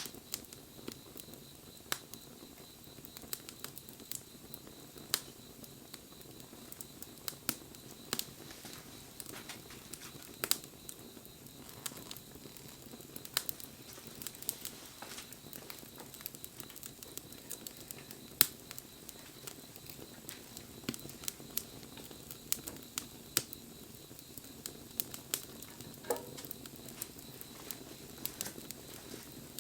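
Wood fire burning, crackling with irregular sharp pops over a soft steady rush of flame, with one louder pop about two-thirds of the way through.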